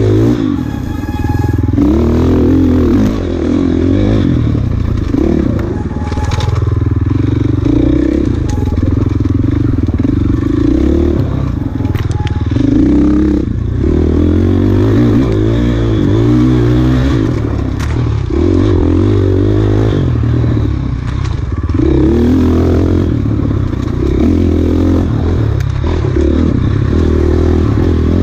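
Off-road enduro motorcycle engine revving up and falling back again and again as the bike is ridden hard at race pace, with occasional sharp clicks and knocks.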